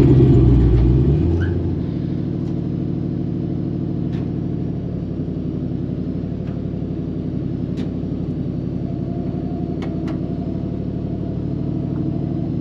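LS-swapped V8 in a 1955 Chevy 210 wagon running: louder at first, easing off about a second and a half in, then running steadily at a low, even pace.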